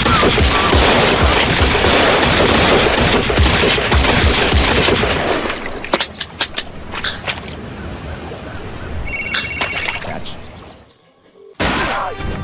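Stock gunfire sound effect: a loud, dense burst with repeated heavy thumps that dies away over about six seconds, followed by scattered clicks and a few short beeps.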